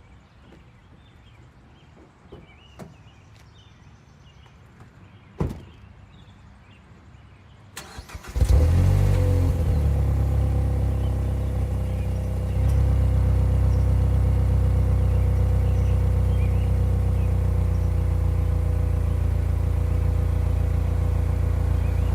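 A few faint clicks and a knock, then about eight seconds in a 2013 Mazdaspeed3's turbocharged 2.3-litre four-cylinder cranks briefly, catches and settles into a steady idle through its resonator-deleted exhaust, the idle stepping up slightly a few seconds later.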